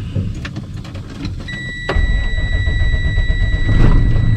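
Dump truck's diesel engine starting, its low rumble growing louder after a click about two seconds in, while a steady high warning tone sounds in the cab for about three seconds.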